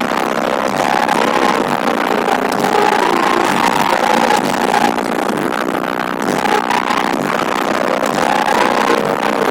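Loud bass-heavy music playing steadily through a car subwoofer system: a DST PSW 40D2 subwoofer in a 130-litre ported box.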